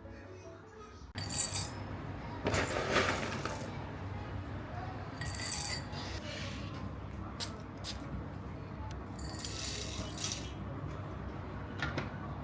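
Clinks and rattles of small hard household objects being handled, in several short bursts over a steady low background.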